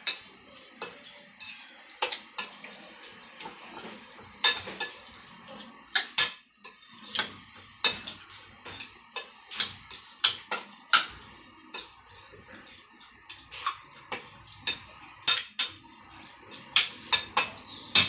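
A utensil stirring a wet chermoula marinade in a bowl, clinking and knocking against the bowl's side at an irregular pace, with quick runs of clinks near the end.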